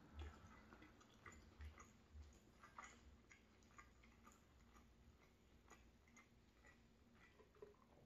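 Faint close-up chewing of a mouthful of soft egg, potato and cheddar flatbread: scattered soft mouth clicks and low thumps, barely above near silence.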